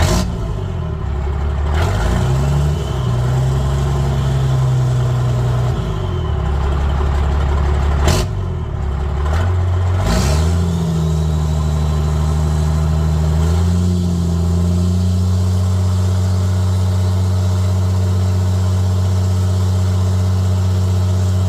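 12-valve Cummins 5.9 inline-six turbo diesel running through a 4-inch straight pipe and stack. The engine note drops sharply and climbs again several times, with a few sharp cracks, then holds at a steady pitch for the second half.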